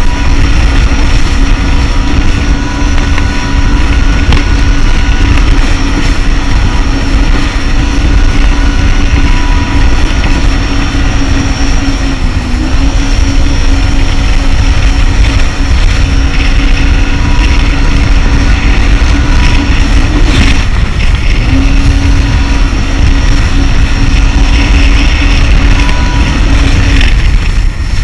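Jet ski engine running at a steady high throttle under heavy wind and water rush. The engine note dips briefly about halfway, cuts back for about a second about three-quarters through, then picks up again.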